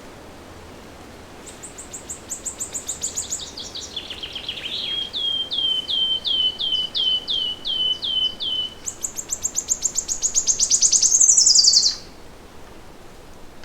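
A songbird singing one long, varied song of about ten seconds: a fast trill that slides down in pitch, then about ten slower, clear notes at a steady pace, then a high fast trill that grows louder and ends with a sweep down. A faint steady hiss lies underneath.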